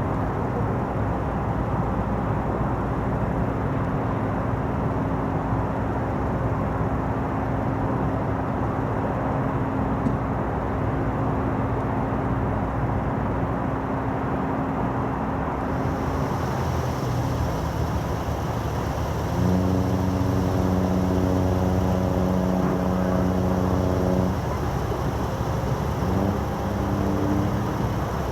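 Steady rumble and wind noise, with a long deep horn blast of about five seconds starting about twenty seconds in and a shorter blast near the end: a large ship's whistle sounding.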